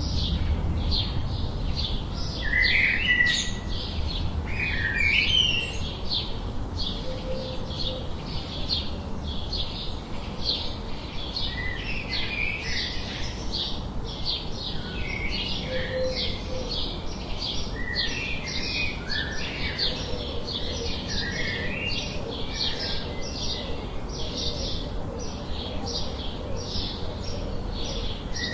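A chorus of birds chirping without pause: rapid short high chirps, several a second, with lower warbling calls mixed in here and there, over low background noise.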